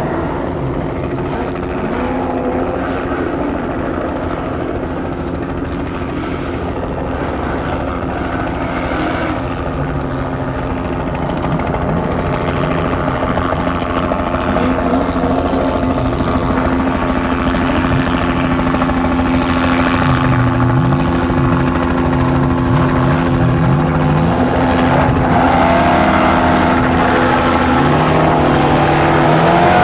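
An off-road race truck's engine revving up and down, growing louder as it approaches, over a steady mechanical drone.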